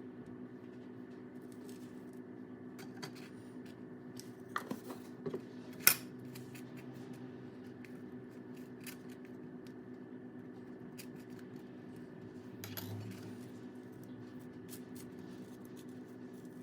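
Steady low hum with a few light clicks and clinks of small objects being handled, the sharpest about six seconds in, and a short rustle near the end.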